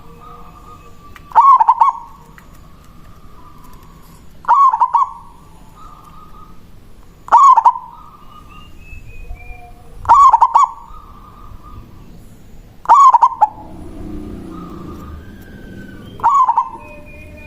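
Local zebra dove (perkutut) singing its manggung coo, six short stuttering phrases about every three seconds.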